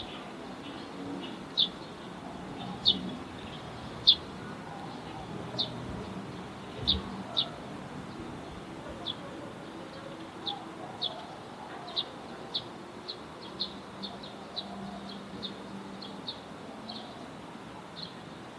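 A small bird chirping: short, sharp, high chirps repeated irregularly, coming faster in the second half, over a low outdoor murmur.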